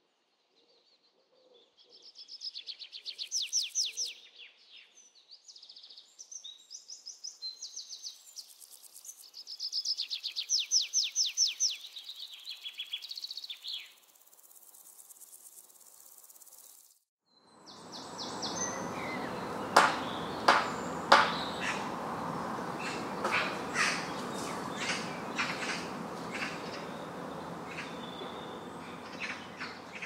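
Songbird singing in rapid trilled phrases of quick, high repeated notes, with pauses between phrases. After a sudden cut comes a steady noise with scattered sharp clicks.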